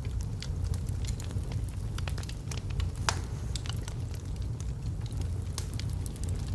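Wood logs burning in a fireplace, crackling with irregular pops and snaps over a low steady rumble of the flames, one sharper snap about three seconds in.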